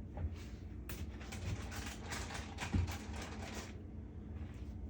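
Kitchen handling sounds: a quick run of light rustles and clicks for a few seconds, over a low steady hum.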